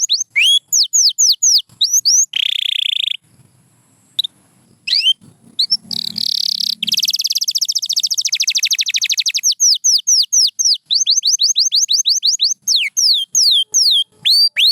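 Canary singing: runs of quick downward-sweeping whistled notes, a short buzzy held note, a brief pause, then a fast rolling trill lasting a few seconds before the falling notes return.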